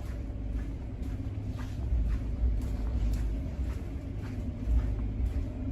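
Steady low rumble of an idling vehicle engine, with a few faint ticks.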